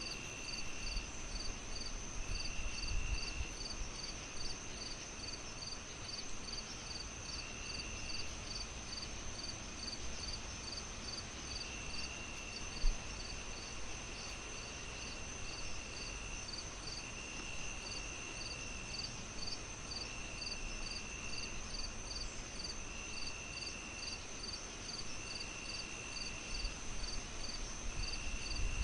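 Insects chirping: an even pulsed chirp about twice a second over a continuous high drone, with a lower trill coming and going in stretches of about a second, all over a soft hiss. A single sharp pop comes about thirteen seconds in.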